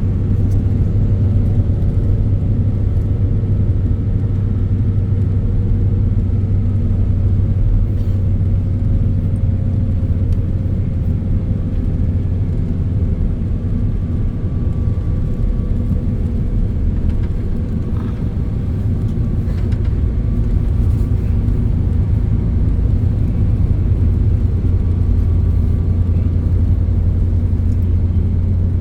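Steady low rumble of a moving road vehicle, with a faint tone that slowly falls in pitch.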